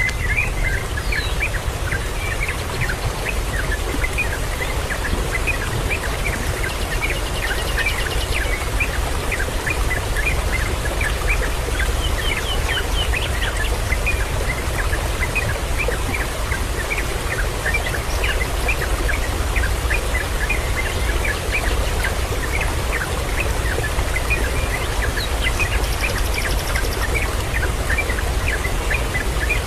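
Many birds calling in a continuous stream of short chirps, several a second, over a steady rushing background noise.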